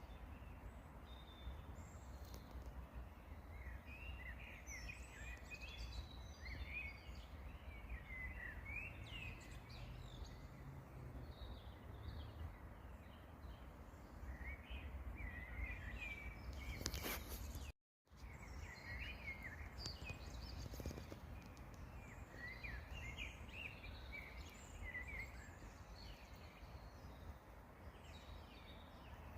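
Small songbirds chirping and twittering in short, quick phrases over a steady low rumble. About two-thirds of the way through, the sound drops out for a split second.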